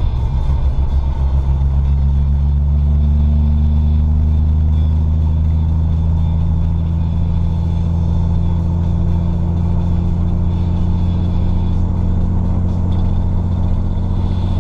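A car's engine running as the car drives along, a steady low drone with road noise. It rises a little in pitch over the first couple of seconds, then holds steady at cruising speed.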